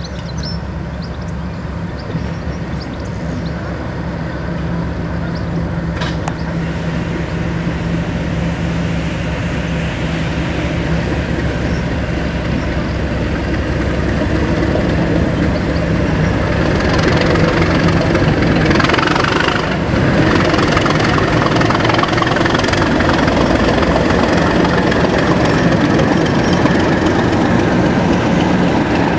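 Diesel locomotive engine running with a steady low hum, growing steadily louder as the train approaches.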